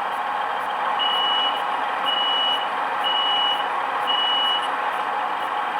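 DCC sound decoder playing Irish Rail 29000 class diesel railcar sounds: the engine idling steadily while four high warning beeps sound, about one a second.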